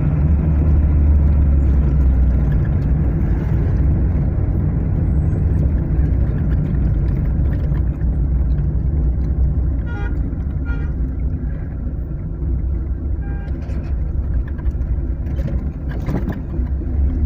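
Car driving, heard from inside the cabin: steady low road and engine rumble. Near the middle come a couple of short, stuttering high-pitched squeaks.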